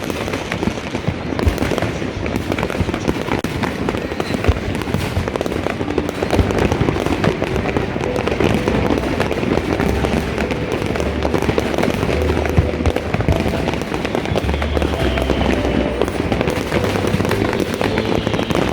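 Fireworks going off without a break, a constant crackle of many rapid small bangs and pops.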